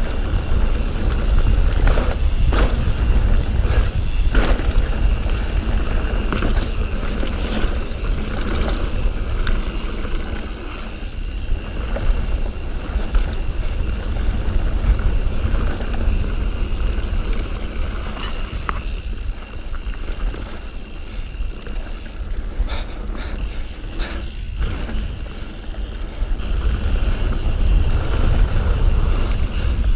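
Mountain bike riding down a dirt trail: a steady low rumble of wind buffeting the microphone and tyres running over dirt and rock, broken by a few sharp clacks from the bike jolting over bumps.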